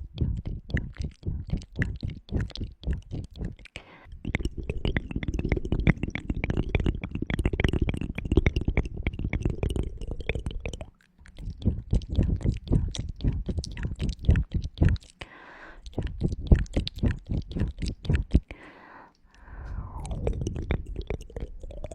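ASMR ear cleaning on a microphone: rapid, dense crackling clicks and rubbing right at the mic, with a few brief pauses.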